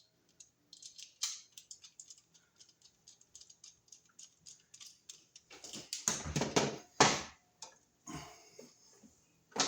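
Rapid small clicks of a screwdriver turning down the unused load-side terminal screws on a GFCI receptacle, followed by a few louder scrapes and knocks past the middle.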